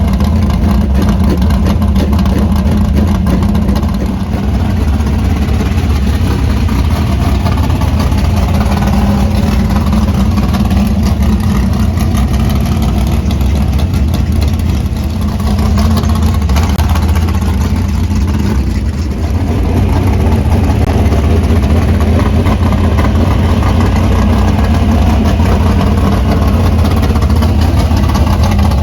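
Race car engines running loud and steady, a continuous drone that dips briefly a few times.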